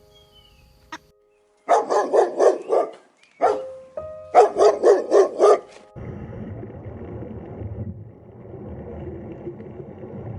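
A dog barking in two quick runs of about five or six barks each, with a single bark between them. A steady low rushing noise follows from about six seconds in.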